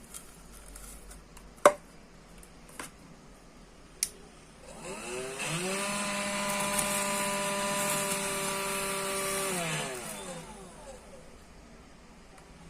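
Cordless vacuum cleaner motor switched on: it spins up with a rising whine, runs steadily for about four seconds, then winds down. It is a test run after a new battery and charging socket were fitted. A few sharp clicks of handling come in the first few seconds.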